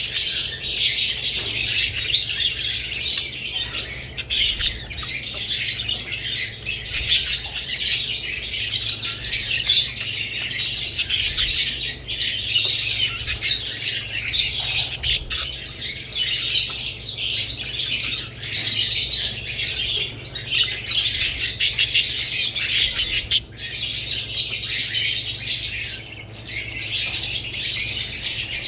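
A flock of budgerigars and lovebirds chirping and chattering together without a break, with a few sharp clicks and a low steady hum underneath.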